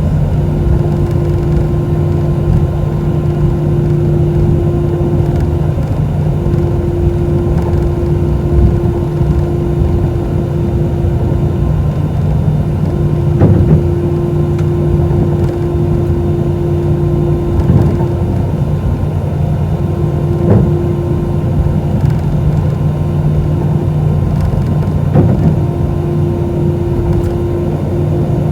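Cabin noise of an Airbus A320-212 on the ground: steady hum from its CFM56 engines over a rumble, with a few separate thumps from the wheels rolling over pavement joints. Near the end a higher tone comes in and starts to rise.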